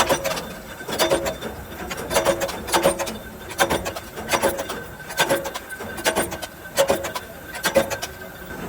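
Repeated rasping strokes by hand, about one every 0.8 seconds, each with a faint ringing tone.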